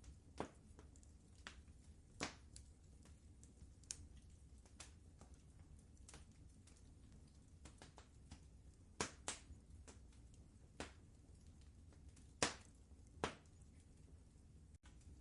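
Wood fire crackling in a fireplace: quiet, irregular pops and snaps, half a dozen of them louder, over a low steady rumble.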